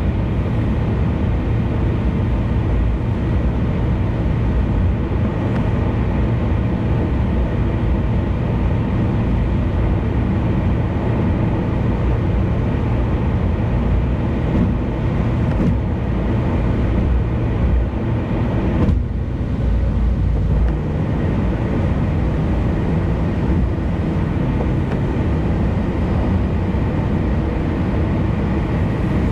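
Car travelling at expressway speed: steady road and tyre noise with a low engine hum.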